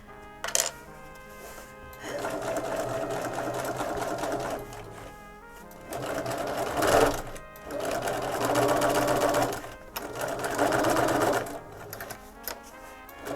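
Bernina 335 sewing machine stitching in about four short runs with pauses between, topstitching at a lengthened stitch through layers of waxed oilskin fabric.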